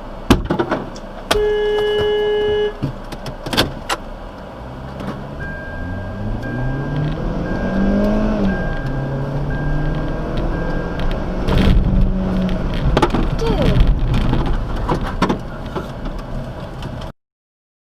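Road vehicle sounds: a steady pitched tone, like a held car horn, lasting about a second and a half near the start. Then an engine speeds up and slows down several times, with a short repeated beeping for a few seconds in the middle and scattered knocks and clicks. The sound cuts off abruptly near the end.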